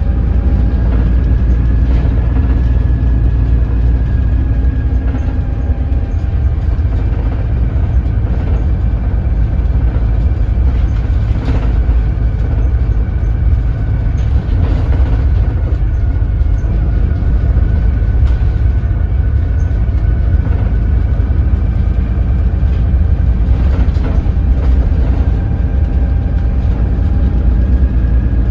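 A BS106 city bus's Doosan DL08K diesel engine running at low revs while the bus drives slowly. A heavy steady rumble with a faint whine over it and a few brief rattles or knocks.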